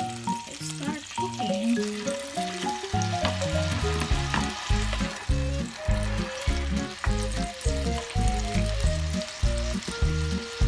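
Ahi tuna steak sizzling as it fries in butter in a pan, a steady hiss, under background music with a steady, prominent bass beat.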